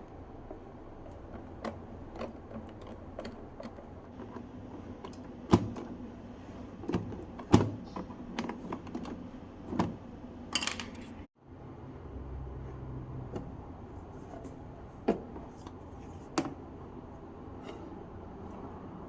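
Hard plastic parts of a coffee maker clicking and knocking as it is handled and taken apart, with a few sharper knocks and a short scrape.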